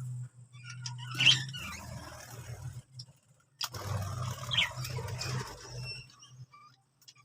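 Birds scratching and shuffling about with two short high chirps, over a steady low hum that breaks off briefly twice.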